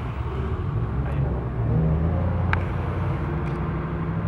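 Low, steady engine rumble of a Hummer moving slowly, with a single sharp click about two and a half seconds in.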